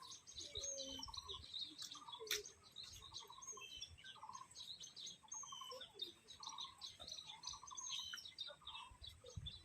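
Several small birds chirping and twittering, with a lower, short trilled note repeating about once a second.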